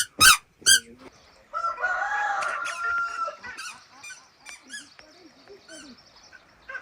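A rooster crowing: one long crow of about two seconds, starting about a second and a half in. Three short, loud, sharp sounds come just before it, and softer short calls follow.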